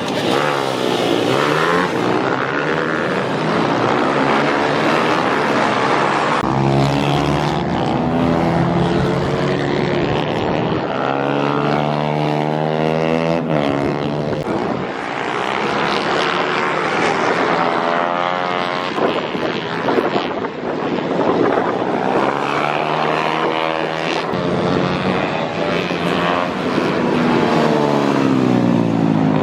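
Pit bike engines racing on track, revving up and down through the gears, their pitch rising and falling as bikes pass by.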